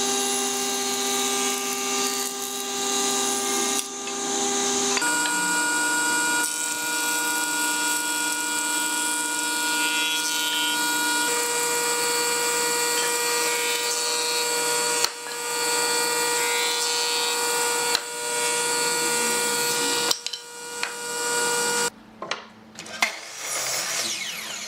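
Electric woodworking power tools running with a steady motor whine over cutting noise. The pitch jumps to a new level several times. Near the end the motor sound stops and a few knocks of wood being handled follow.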